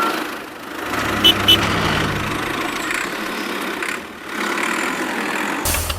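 A motor running steadily with a low hum, with two short clicks about a second in; the sound changes abruptly near the end.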